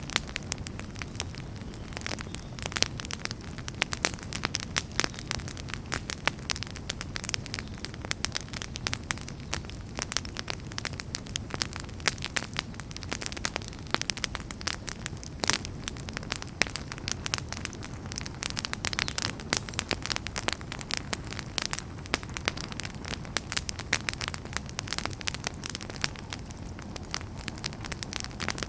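Wood fire burning, with dense, irregular crackles and pops over a steady low rumble of flame.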